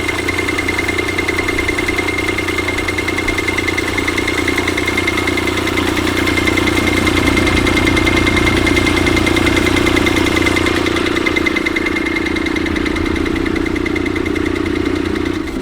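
Large antique stationary engine running steadily with a fast, even beat, alongside a constant high whine.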